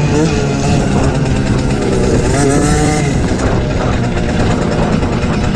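The small two-stroke engine of an MXF 50 Pro Racing mini motocross bike, heard from onboard while racing. Its revs rise and fall several times as the throttle is worked, over heavy wind and rumble noise.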